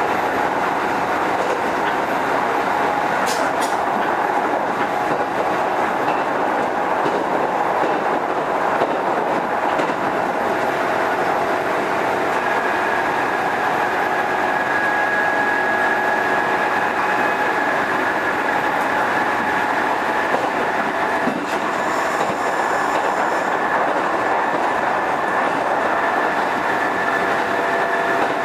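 Kintetsu 2430-series electric train running at speed, heard from inside the car: a steady rumble of wheels on rail. About twelve seconds in, a thin steady whine joins it and holds to the end.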